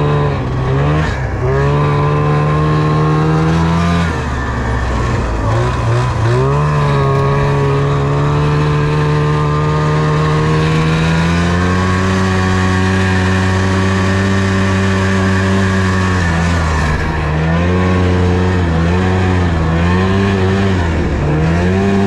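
Snowmobile engine running under throttle, its pitch climbing and holding steady for long stretches, with a drop about four seconds in and several short dips near the end as the throttle is eased and reopened.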